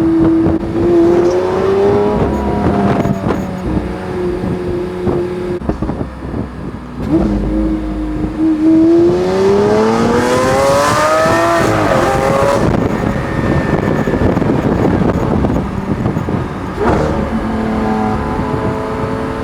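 Lamborghini Aventador's V12 engine under way: the engine note holds steady, then climbs sharply for a couple of seconds about halfway through before dropping back and settling into steady cruising.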